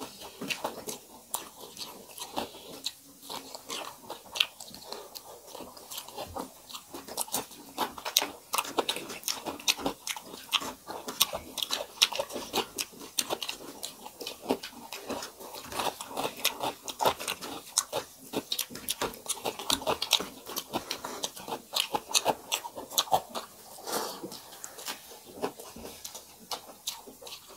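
Close-miked eating of rice, dal and fried vegetables by two people: chewing and crunching bites, a dense, uneven run of sharp mouth clicks.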